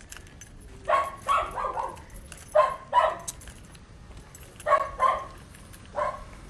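A dog barking: about eight short barks, mostly in quick pairs.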